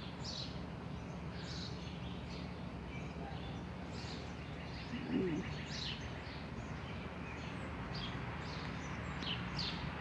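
Small birds chirping, short high calls every second or so with a quick trill about three seconds in, over a steady low background hum.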